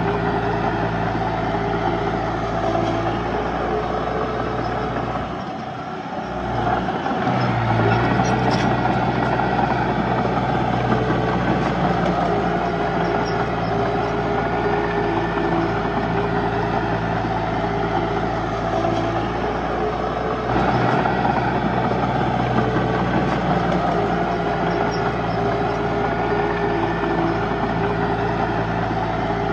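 Heavy diesel engine of earthmoving machinery running steadily, with a brief drop in level about five seconds in before it picks up again.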